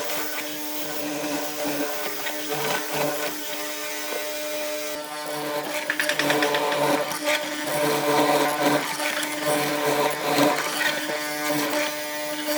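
An electric power tool running with a steady motor hum, growing louder and rougher from about six seconds in as it works the wood.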